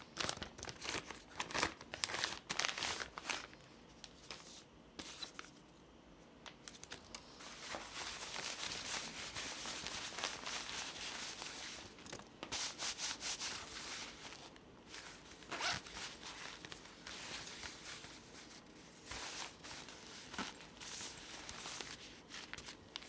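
Packaging and small items handled by hand: rubbing, scraping and rustling in uneven bursts with a few brief pauses, plus scattered light clicks.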